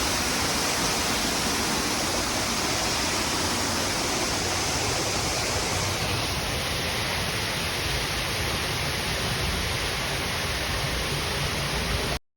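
Waterfall: a steady rush of falling water that stays even throughout and cuts off suddenly near the end.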